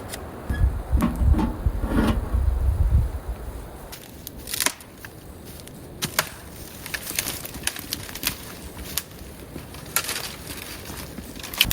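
A series of sharp, irregularly spaced wooden clicks and knocks, with a low rumble of handling in the first few seconds.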